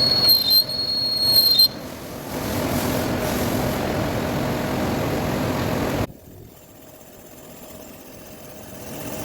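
Metal lathe cutting a workpiece: a high-pitched tool squeal for the first second and a half or so, then the lathe running with a steady hum that drops away suddenly about six seconds in.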